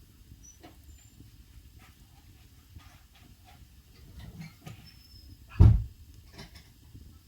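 Wood fire burning in a traditional Korean agungi firebox, crackling with scattered small pops. About five and a half seconds in comes one much louder, deep thump.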